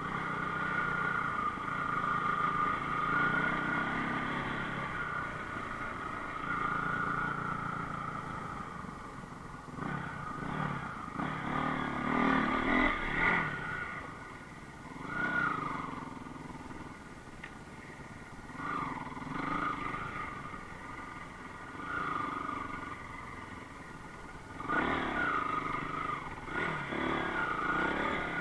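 Enduro motorcycle engine running steadily at first. From about ten seconds in it is revved in repeated surges a few seconds apart, with lower revs in between.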